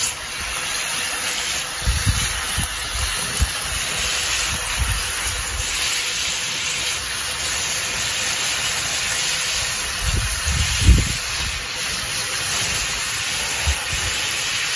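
Chicken pieces frying in hot oil in a cast iron pot: a steady sizzling hiss, with a few brief low rumbles about two seconds in and again around ten to eleven seconds.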